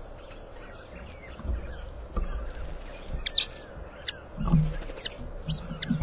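Birds chirping: short, high, quick calls that cluster in the second half, over a low rumble with several dull thumps, the loudest about four and a half seconds in.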